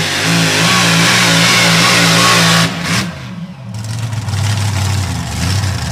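Pulling truck's engine running hard at full throttle, then cut back abruptly about two and a half seconds in, dropping to a lower, uneven running.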